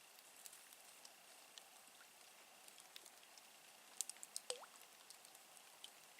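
Near silence with faint scattered drips and ticks, and a short cluster of sharper clicks about four seconds in.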